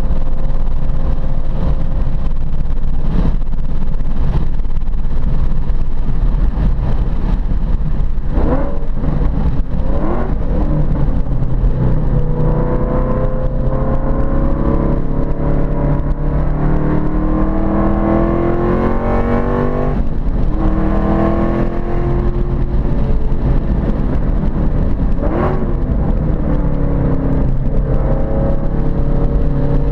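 Ford Boss 302 V8 engine running hard on a road course, its pitch climbing steadily under acceleration and dropping sharply several times at gear changes or lifts, over a heavy low rumble of wind and road noise.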